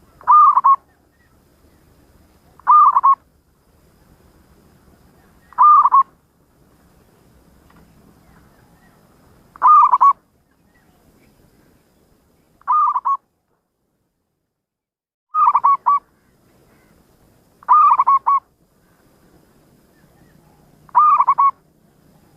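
Zebra dove (perkutut) cooing: eight short, loud coos, each about half a second long and some broken into two or three quick notes, repeated every two to four seconds.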